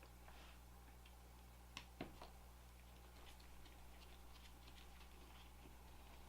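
Near silence, with faint small clicks and ticks of a precision screwdriver and tiny screws as the screws come out of a smartphone's back frame, two slightly sharper clicks about two seconds in, over a low steady hum.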